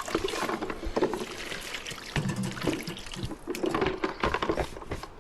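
Water splashing and running, with scattered clicks and knocks.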